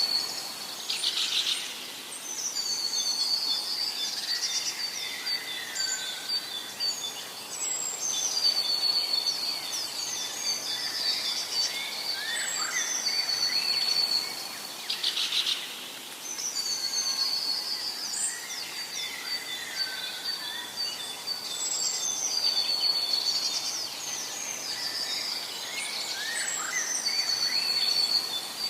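Several songbirds singing and calling in a forest: high chirps, trills and whistled phrases over a faint steady background hiss, with the same pattern of song recurring about every seven seconds.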